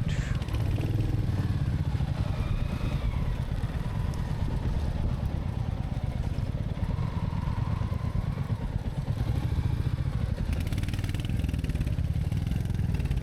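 Royal Enfield Meteor 350's single-cylinder engine running steadily at low speed.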